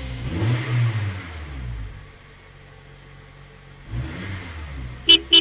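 Cartoon bus sound effect: an engine revs up and runs for about two seconds, revs again about four seconds in, then gives two short horn honks near the end.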